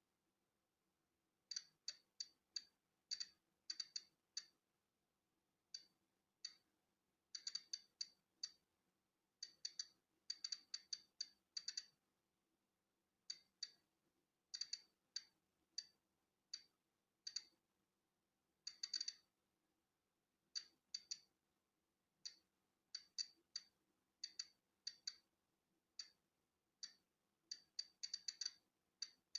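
Polon EKO-C digital Geiger counter clicking at random, uneven intervals, some clicks bunched close together and others a second or more apart: each click is a detected particle of natural background radiation. The clicks are short and high-pitched over a very faint hum.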